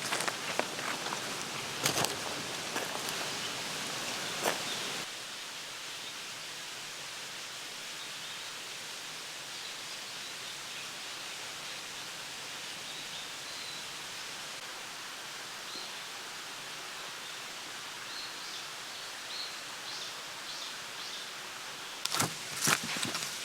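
Quiet outdoor ambience: a steady even hiss with a few faint high chirps. A few sharp clicks and knocks of handling sound in the first seconds and again near the end.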